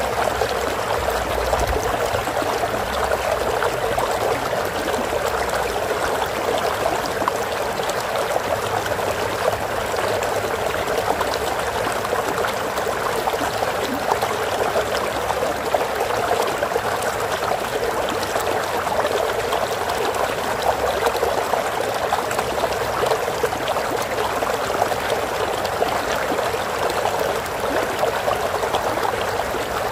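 Water flowing in a stream, a steady, even rush of running water.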